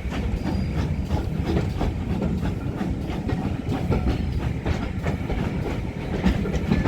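Railway carriage running on the track, heard from aboard the train: a steady low rumble with irregular clicks and clatter from the wheels over the rails.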